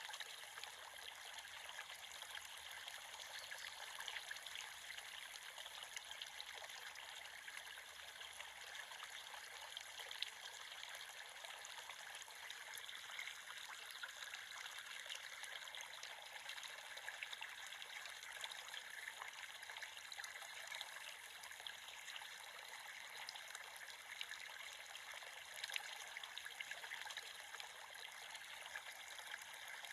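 A shallow creek trickling and babbling steadily over stones, a continuous light, splashy water sound with little low rumble.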